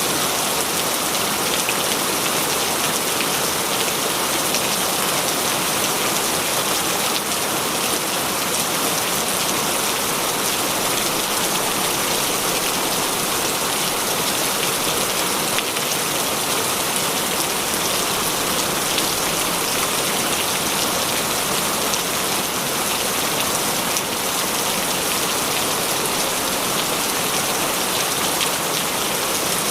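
Heavy rain falling steadily, a dense even hiss of rain with scattered drops pattering on surfaces.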